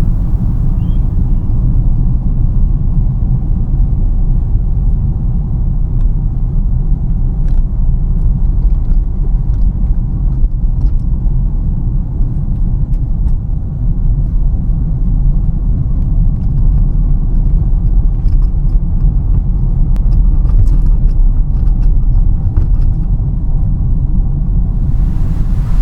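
Steady low road rumble of a car being driven, heard from inside the cabin, with scattered faint light ticks. A brighter hiss comes in near the end.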